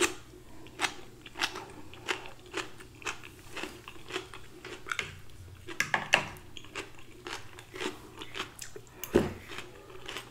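Close-up crunchy chewing of a cucumber, tomato and pickled-onion salad, a sharp crunch about every half second, with one louder bite about nine seconds in.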